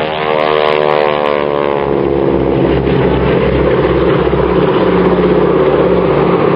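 Propeller-driven piston-engined aircraft flying past, its engine note falling in pitch as it goes by and settling into a steady drone.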